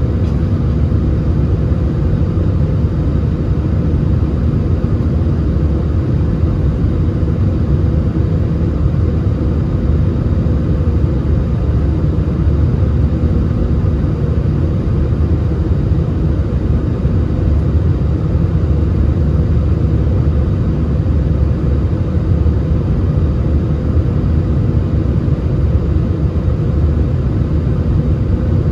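Airbus A320 jet engines and airflow: a steady low rumble with a faint constant hum above it, unchanging throughout.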